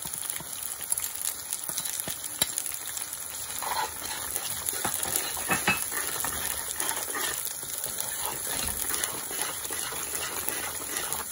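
Onion and garlic-ginger paste frying in oil in a pot as spices are added and stirred in. A steady sizzle runs under the scattered clicks and scrapes of a spoon against the pot.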